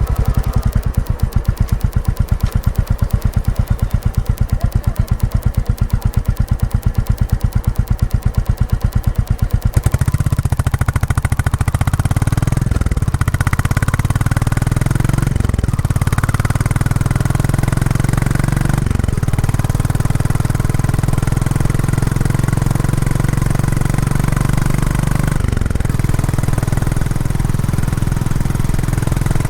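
Royal Enfield Classic 350's single-cylinder engine through the stock exhaust. For about the first ten seconds it gives an even, rapid run of thumps at low speed. Then it pulls away into a fuller, continuous running sound, with the note dipping briefly four times as gears are changed.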